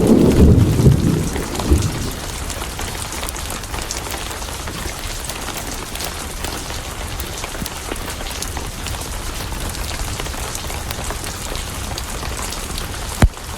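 A thunder rumble dying away over the first two seconds, then steady rain. A single sharp click comes near the end.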